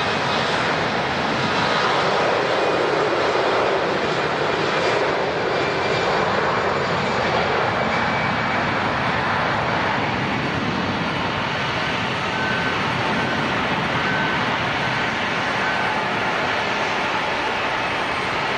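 Airliner's engines, a loud, steady rush of engine noise, its tone sweeping as the aircraft moves past.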